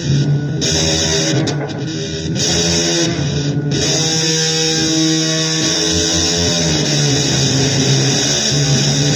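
Electric guitar playing blues, with long held notes over a steady noisy hiss.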